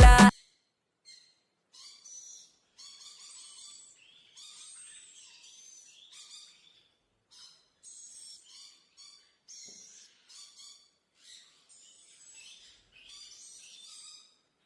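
Small parrots calling in repeated short bursts of high-pitched chirps and chatter, with brief gaps between them.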